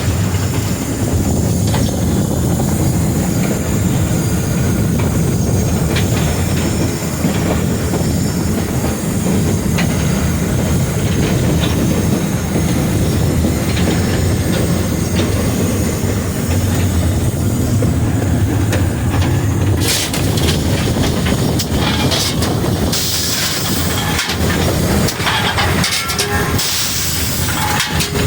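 Frisco 1630, a 2-8-2 Mikado steam locomotive, heard from inside its cab while under way: a steady loud rumble and clatter of the engine and its wheels on the rails. Bursts of high hissing come in during the last several seconds.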